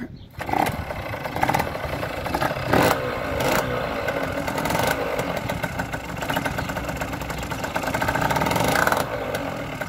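Derby Senda's two-stroke engine, fitted with a 70cc cast-iron Top Performances kit and a 21 mm Dellorto carburettor, comes in just after the start and runs with several sharp throttle blips. It revs up over the last few seconds, then drops back about nine seconds in.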